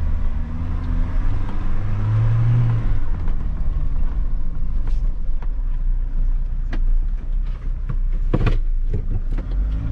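Mahindra Thar's engine running as the vehicle drives, heard from inside the cabin: a steady low rumble with the engine note swelling briefly about two seconds in. A few short clicks and knocks come through it, the most noticeable one about eight seconds in.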